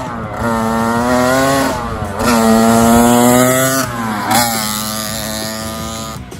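1983 Honda CR80R's two-stroke single-cylinder engine revving as the bike is ridden: the pitch climbs and holds high, dips briefly about two seconds in, climbs and holds again, then drops about four seconds in and slowly falls away.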